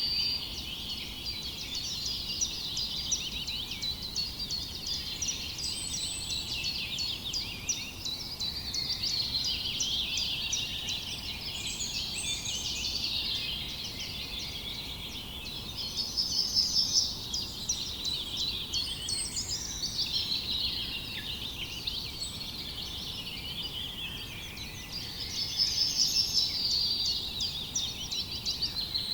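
A dense chorus of small songbirds chirping and twittering without a break, with a louder, fast trilled phrase breaking in twice, about halfway through and near the end.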